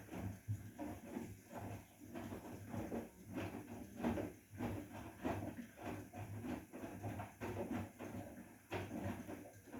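Bosch WGA25202TR front-loading washing machine mid-wash: laundry and water churning in the turning drum, in uneven surges about every half second.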